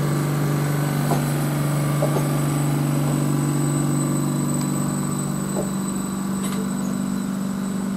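A train standing at the platform, running a steady low hum with a thin high whine above it and a few faint clicks.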